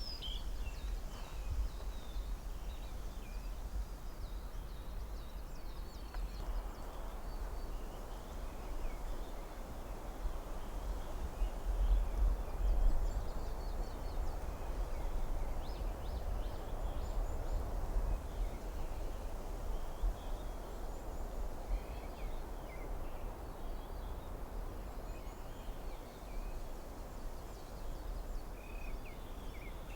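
Wind moving through a forest canopy, a steady rush that swells in a gust midway, with low wind rumble. Scattered short calls of small birds sound over it.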